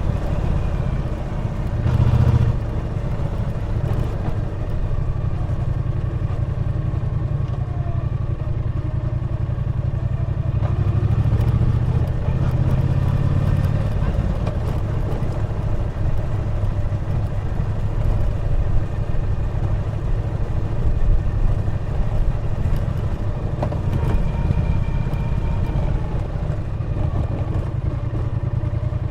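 Triumph Bonneville T120's parallel-twin engine running steadily under way on the road, with a brief swell in level about two seconds in.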